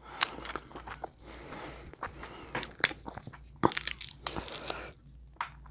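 Close-miked mukbang eating: a person biting and chewing seafood boil food, with irregular sharp crunches and wet clicks, the strongest a few seconds in.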